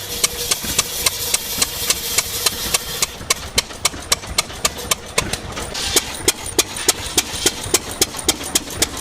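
Sawmill demonstration driven by an old engine, with an even clicking beat of about four a second throughout. The saw hisses through wood twice, for the first three seconds and again about six seconds in.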